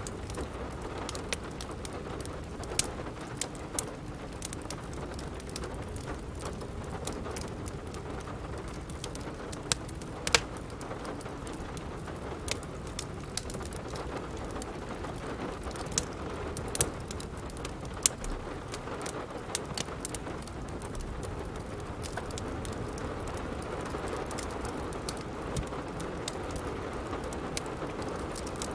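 Steady rain with a wood fire crackling, sharp pops coming at irregular intervals over the even hiss of the rain.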